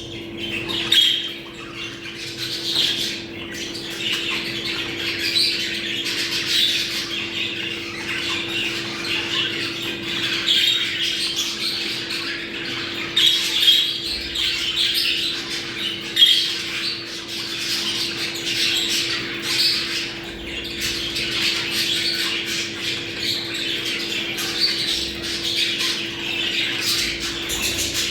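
A flock of budgerigars chattering and squawking without pause: dense, overlapping warbles and chirps.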